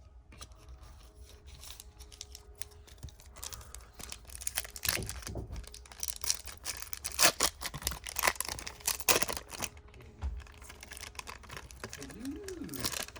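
A trading-card pack wrapper crinkling and tearing open by hand, with the cards inside being handled. The crackling and snapping is densest and loudest through the middle.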